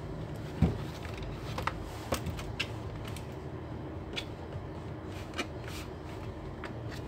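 Scattered light clicks and taps of plastic laptop parts being handled and pressed together while the screen assembly is finished, with one sharper knock under a second in.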